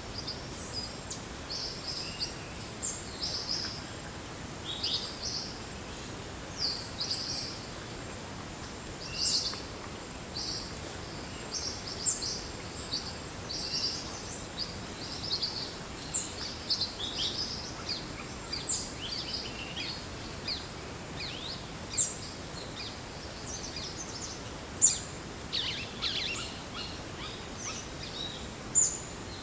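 Forest soundscape: many short, high bird chirps and calls from several birds, scattered and overlapping, over a steady background hiss.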